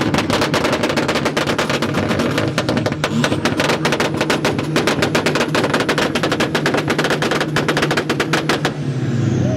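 Volkswagen's engine held at high revs, its exhaust firing a rapid, machine-gun-like string of loud pops and cracks over the engine drone, stopping shortly before the end.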